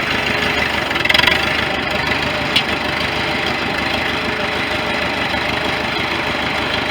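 Farm tractor engine running steadily, with a brief louder rattle about a second in and a sharp click a little later.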